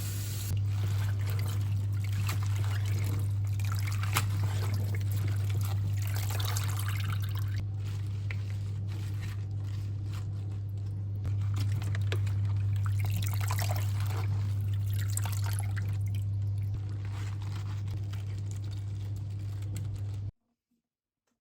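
Water running from a tap into a sink, splashing unevenly as something is rinsed under it, over a steady low hum. It cuts off suddenly near the end.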